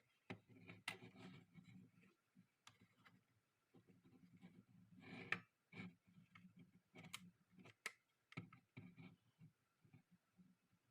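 Irregular plastic clicks and rustling from a phone holder being handled, a sharp click now and then among softer fumbling, the loudest about five seconds in.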